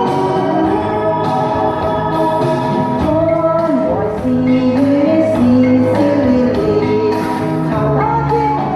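A female singer singing a slow, held melody that slides between notes, over instrumental backing music.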